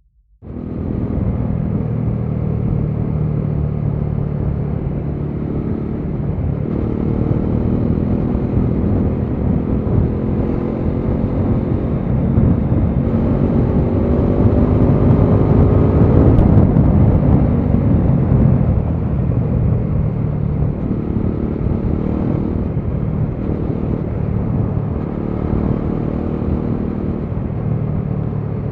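Bajaj Dominar 400's single-cylinder engine and exhaust running while riding, heard from the rider's seat with road and wind noise. The engine note starts abruptly, climbs steadily as it pulls through the middle, and drops back about two-thirds of the way in.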